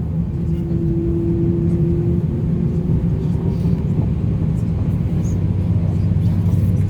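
Cabin noise inside an Airbus A350-900: the steady low drone of the Rolls-Royce Trent XWB engines and cabin air, with a steady hum note that comes in about half a second in and fades out around three seconds.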